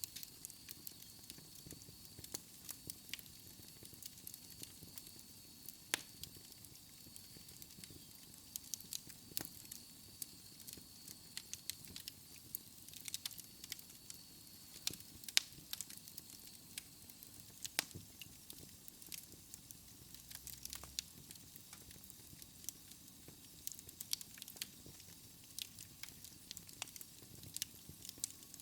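Wood fire crackling in a fireplace: irregular sharp pops and snaps over a soft hiss, with a few louder pops scattered through. A faint steady high whistle runs through the first half, then fades.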